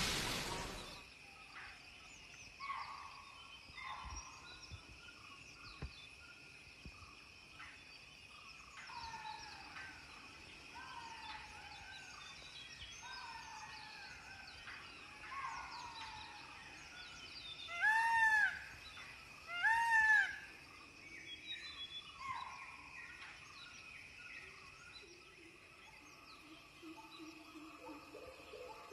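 Forest ambience: a steady high drone and many short, falling bird calls. About two-thirds of the way in, two loud arched calls of an Indian peafowl come about two seconds apart.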